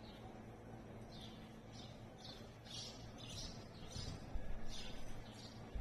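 Small birds chirping in a quick string of short high calls, with a few dull low thumps from about four seconds in.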